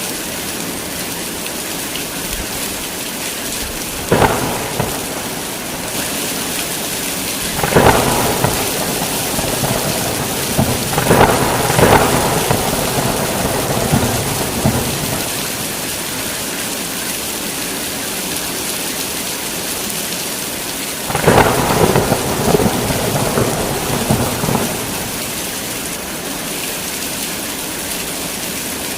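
Heavy rain falling steadily, with thunder: a short crack about four seconds in, a longer crackling roll from about eight to fifteen seconds, and another roll from about twenty-one to twenty-five seconds.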